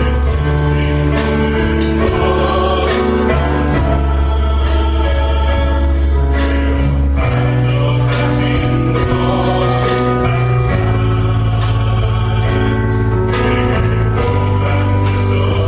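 Choir singing a Korean gospel worship song over a band with steady bass and a regular drum beat.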